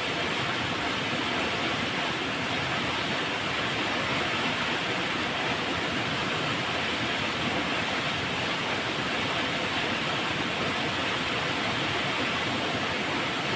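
River water flowing and rushing in a steady, even hiss with no breaks.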